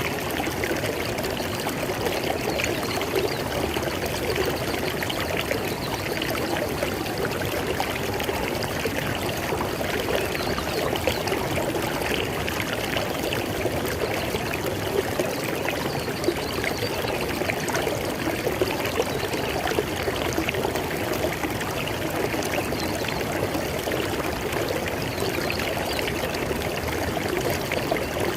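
River water flowing over rocks, a steady rushing and splashing with fine babbling detail.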